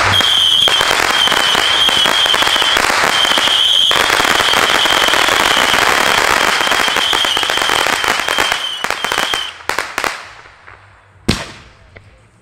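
Consumer fireworks going off: a dense, continuous crackle of small pops with a shrill high whistle wavering over it, ending about nine and a half seconds in. A few separate sharp bangs follow.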